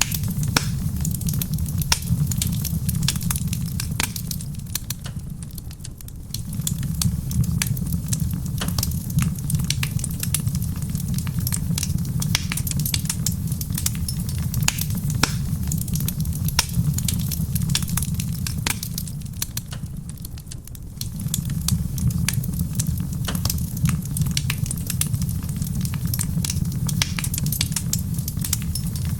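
Wood fire crackling in a stone fireplace, with frequent sharp pops and snaps over a steady low rumble that briefly fades and swells back twice.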